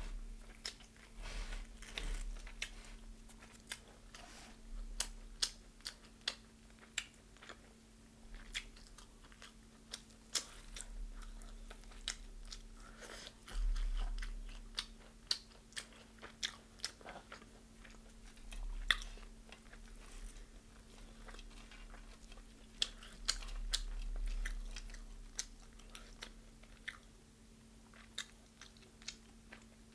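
Close-up chewing and biting into deep-fried chicken, with many irregular sharp crunches and a few dull low thumps. A faint steady hum runs underneath.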